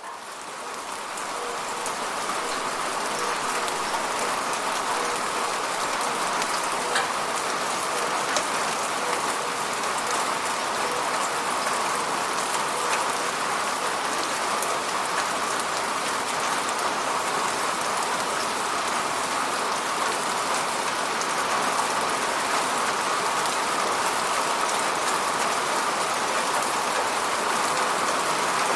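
Steady rain falling on a surface, a dense even hiss with scattered droplet ticks, fading in over the first few seconds.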